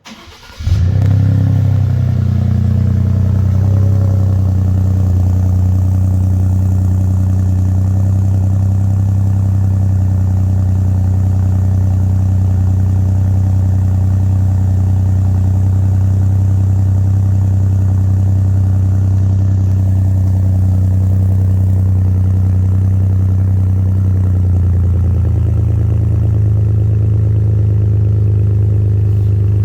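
Ford F-150's 2.7L EcoBoost twin-turbo V6, breathing through a Flowmaster FlowFx muffler with the resonator deleted, warm-starting about a second in, flaring briefly and settling into a steady deep idle. The idle drops slightly near the end.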